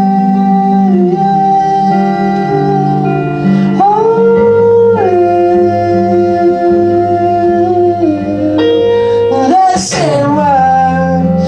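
Live acoustic pop performance: wordless singing in long held notes that slide from pitch to pitch, over acoustic guitar.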